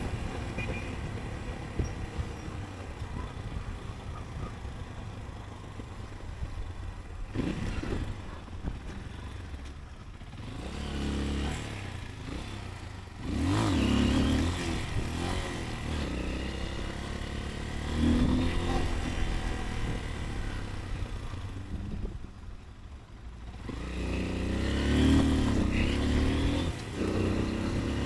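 Motorcycle engine running on an urban ride, revving up and easing off several times as the bike accelerates and slows in traffic, over steady road and wind noise.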